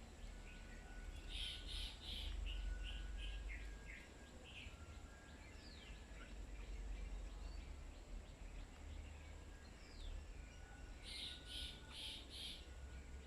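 Several birds chirping and calling, with a burst of four harsh notes about a second in and another near the end, and a few thin whistled glides between them. A steady low rumble runs underneath.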